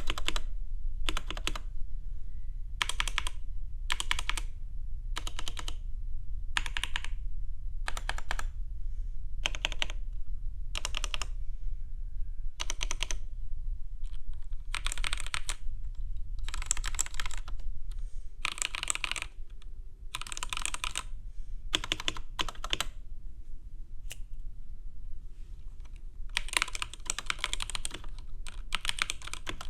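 Typing on a keyboard's keys in short rapid bursts, about one a second at first, then longer runs, and unbroken typing near the end, over a low steady hum.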